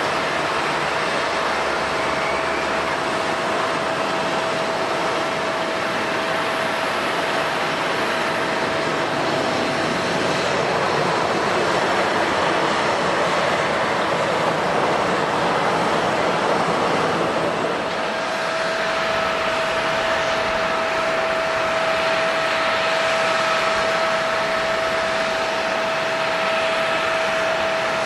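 Jet airliner engines running steadily, a wide rushing noise with a steady whining tone through it and a second, higher whine joining about two-thirds of the way in.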